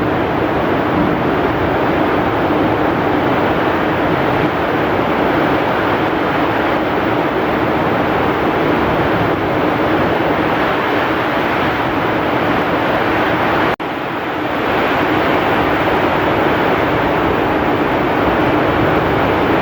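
Heavy rain falling steadily with strong wind, a dense unbroken rushing noise. It cuts out for a split second about two-thirds of the way through, then comes back slightly softer and builds up again.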